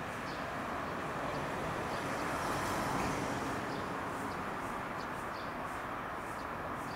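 Steady running noise of a JR West 213 series electric train creeping slowly into the station across the rail yard, swelling slightly about three seconds in.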